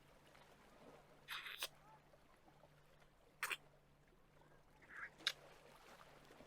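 Kissing: three short, soft lip smacks a couple of seconds apart.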